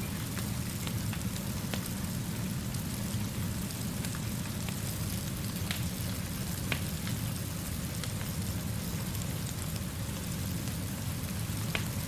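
Steady rainfall with a wood fire crackling under it. Sharp crackles and pops come every second or so, the strongest about six to seven seconds in.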